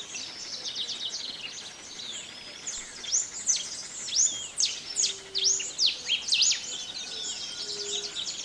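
Several birds singing at once, a busy chorus of quick chirps and sweeping whistles, densest and loudest in the middle. A faint low steady note sounds briefly about five seconds in and again near the end.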